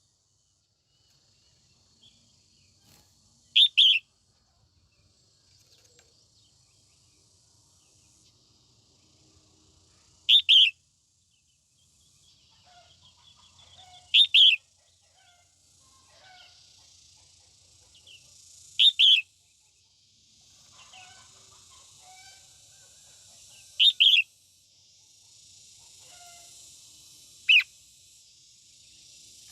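Female red-whiskered bulbul giving short, loud calls every four to five seconds, six in all, some of them doubled. This is the call a hen uses to stir up and draw in males. Faint smaller chirps and a high hiss sit underneath, and the hiss grows louder in the second half.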